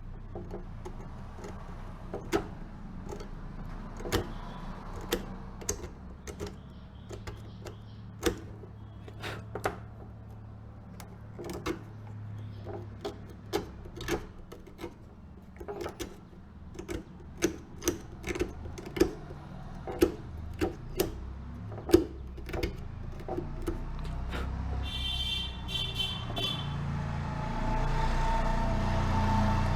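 Sharp clicks and knocks at irregular intervals, like small hand-work on parts, over a low hum. Near the end there is a brief high tone, then a louder steady drone.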